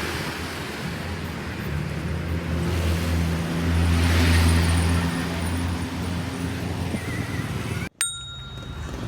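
A motor vehicle's engine hum swelling and fading as it passes on the road, over wind and road noise. Near the end the sound cuts out for an instant, then a single metallic ding rings out.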